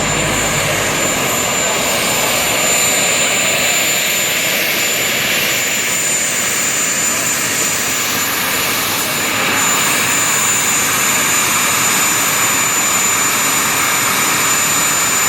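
Jet aircraft engine running loud and steady, a rushing noise with a thin high whine held over it.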